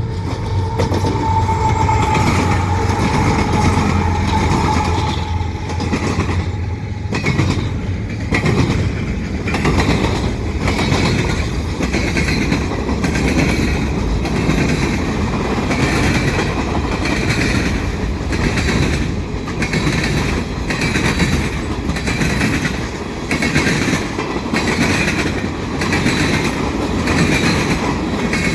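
Canadian Pacific train passing at speed. In the first few seconds the locomotives go by with a steady tone that eases slightly lower. Then the cars roll past with wheels clacking over the rail joints about once a second.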